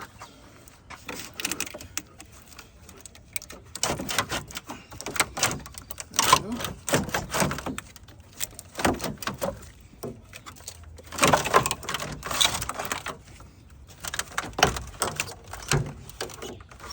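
Irregular metallic knocks, clanks and rattles, in clusters every second or two, as car parts and hand tools are handled in an engine bay.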